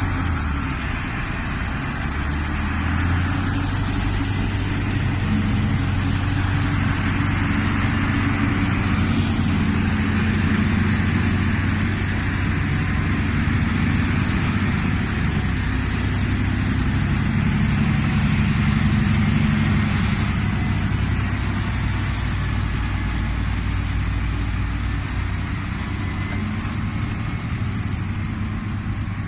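Heavy truck engine running steadily, a low drone whose pitch shifts slightly up and down.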